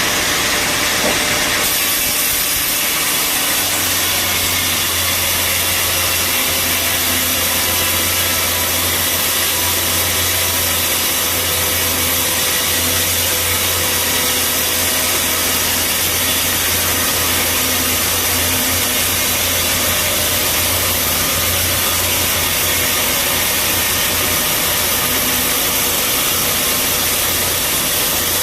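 Bandsaw sawmill cutting through a mahogany log, a steady loud hiss of blade in wood over the running machine. A low hum joins a few seconds in and drops away about five seconds before the end.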